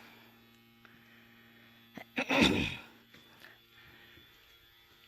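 One short, loud burst of breath or voice from a person about two seconds in, falling in pitch, over a faint steady hum.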